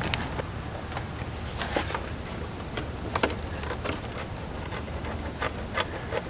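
Scattered light clicks and taps of a plastic push-in clip and surrounding trim being worked loose by hand in a car's engine bay, over a steady low hum.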